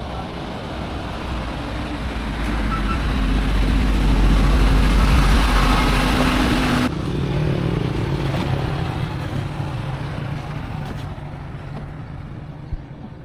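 Motor vehicle engine and road noise, growing louder to a peak about five seconds in. A sudden cut about seven seconds in leaves a quieter steady engine hum that fades away.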